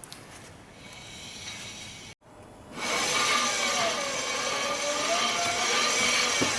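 Toyota Yaris with its wheels turning after a brake pad fix, a steady rushing noise with a faint wavering tone that begins about three seconds in. No banging is heard from the brakes: the refitted pads are quiet.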